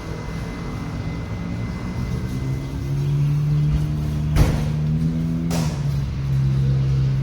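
Huebsch washing machine motor humming and stepping up in pitch, with two sharp clicks in the second half, then cutting off abruptly at the end.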